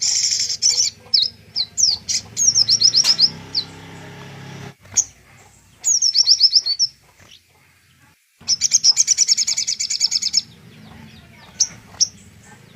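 Recorded songbird song of the kind played as training song (masteran) for a murai: fast high-pitched trills and runs of quick sweeping notes. The song cuts off briefly a little past the middle, then a long rapid trill starts.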